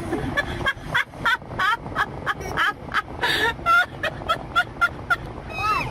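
A rapid run of short, pitched animal calls, several a second, each bending up or down in pitch.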